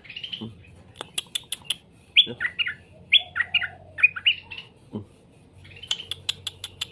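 Straw-headed bulbul (cucak rowo) singing in short phrases of bright falling notes, with quick runs of sharp clicks about a second in and near the end.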